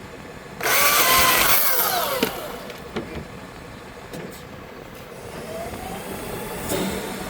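Small chainsaw revved hard for about a second and a half, its pitch then falling quickly as the throttle is released. A shorter, weaker rev comes near the end.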